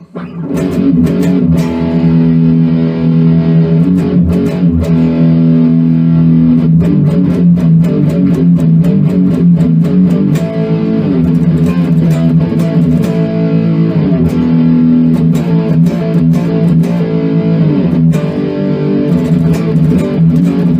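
Electric guitar, a stock Gibson SG, playing thrash metal riffs through a high-gain Cuchillo distortion pedal with the mids scooped and the gain maxed, plus a touch of Goldenresortes reverb, into a Fender 20-watt amp. Heavily distorted, with many sharp picked attacks.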